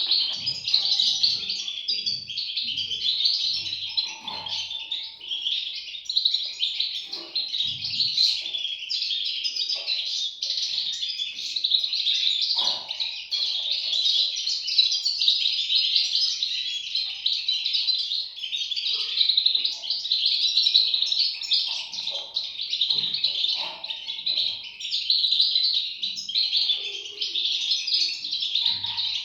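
European goldfinch chicks chirping nonstop in a dense, high-pitched chorus.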